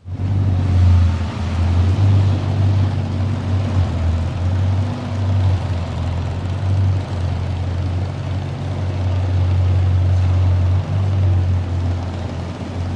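Bugatti Divo's quad-turbocharged W16 engine running steadily, a low, even drone that sets in abruptly.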